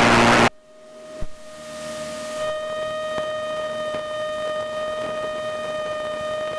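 A light aircraft's engine and propeller droning steadily, heard through the headset intercom. It is preceded by a loud burst of radio static that cuts off abruptly about half a second in, and there is a single click about a second later.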